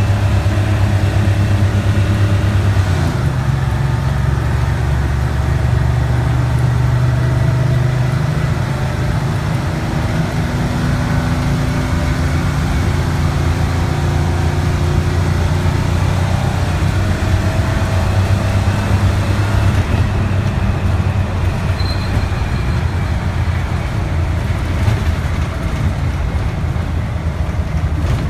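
Detroit Diesel 6V71 two-stroke V6 diesel in a 1974 GM 'fishbowl' transit bus, running steadily while the bus is driven. The engine note steps up in pitch about three seconds in.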